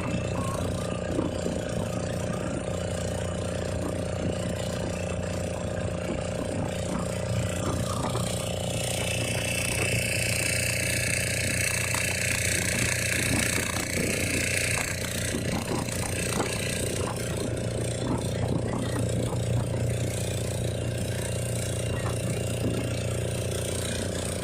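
Boat engine running steadily at a constant speed, with a higher tone joining for several seconds in the middle.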